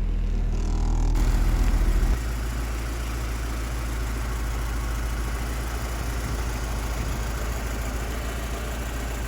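Freshly rebuilt Honda H23 VTEC 2.3-litre inline-four idling shortly after a cold start, running smoothly with a quiet top end; oil pressure is restored now the missing oil squirter port plug is back in. It is louder for the first two seconds, then settles to a steady, slightly quieter idle.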